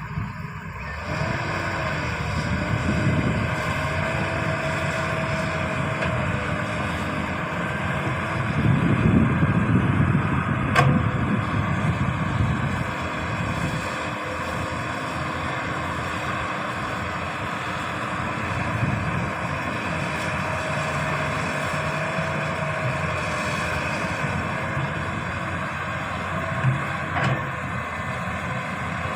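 Heavy diesel earthmoving machinery, an excavator working, running steadily with a faint wavering whine. The engine swells louder for a few seconds near the middle, and there is one sharp knock about eleven seconds in.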